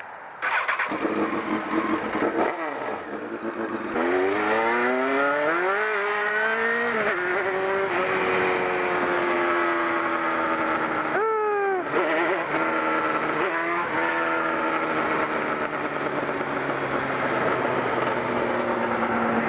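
Kawasaki 250 motorcycle engine pulling away and accelerating through the gears. The pitch rises, then drops at each upshift, twice close together about halfway through. It then settles into a steady cruise with wind rushing past.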